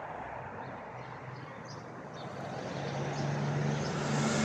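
A motor vehicle running, with a low engine hum and a rush of noise that grows louder over the last couple of seconds as it approaches.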